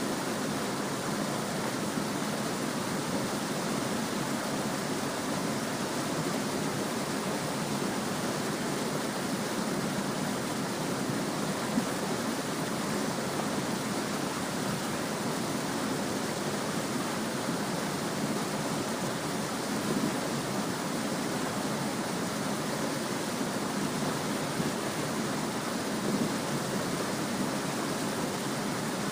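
Small stream babbling steadily, an even rush of running water with no let-up.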